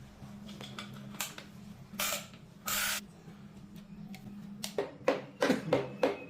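Two short hissing sprays, then a quick run of sharp metallic taps during piston fitting on a three-cylinder engine. Under it runs a steady low hum.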